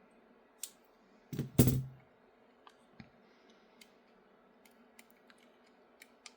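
Small plastic RC-car parts and a spring being handled on a workbench: light clicks and ticks, with one louder knock about a second and a half in.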